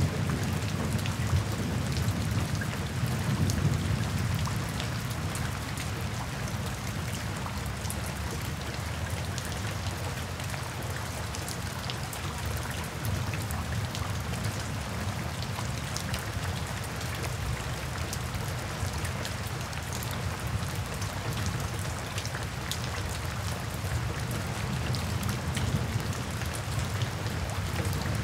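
Steady rain falling on wet paving, with many small sharp drop hits over the constant hiss of the downpour. Under it a low thunder rumble is loudest at the start and dies down over the first few seconds.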